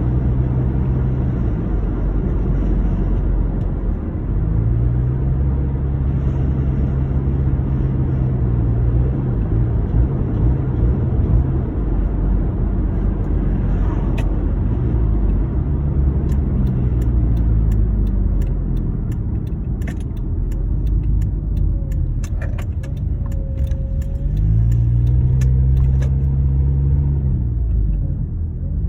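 2009 Honda Accord running with a loud, heavy rumble, its engine note rising and falling several times. The car has an exhaust leak. A run of sharp, irregular clicks comes in over the middle and latter part.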